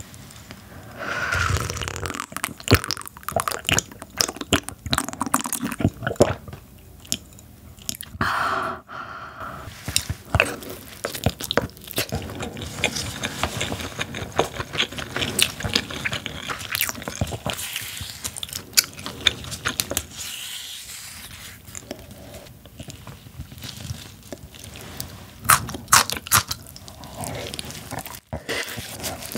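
Close-miked crunching and chewing of napa cabbage kimchi and bean sprout soup, with sips of the soup near the start and wet sounds of the saucy kimchi being pulled apart by hand.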